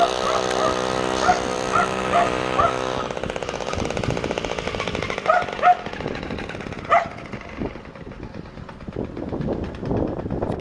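MAW two-stroke clip-on engine on an NSU motorised bicycle running after a cold start in frost, holding a steady note that breaks into a rougher, faster beat about three seconds in. A small dog yaps repeatedly, a few short yaps at a time.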